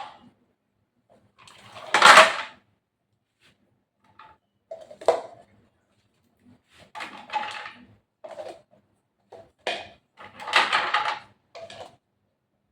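Intermittent clatter and rustling of objects being handled: about a dozen short, separate knocks and scrapes with silence between them.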